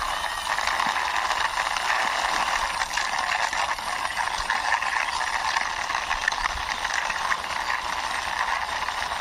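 Small plastic wheels of a toy sports car rolling and rattling steadily over a surface as it is pushed along by hand, with a continuous stream of small ticks.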